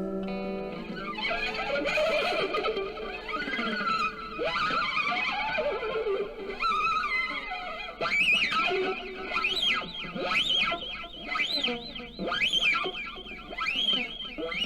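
Electric guitar played through distortion and effects: a held chord at the start gives way to fast swooping pitch bends that rise and fall over and over, climbing higher toward the end.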